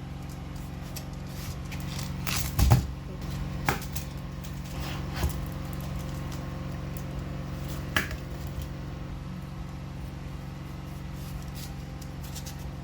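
A steady low mechanical hum, with a handful of knocks and clatters, the loudest about a quarter of the way in.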